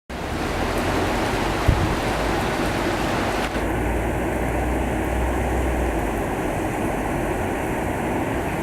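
Heavy rain pouring down steadily in a dense, even hiss, with a single short low thump about two seconds in.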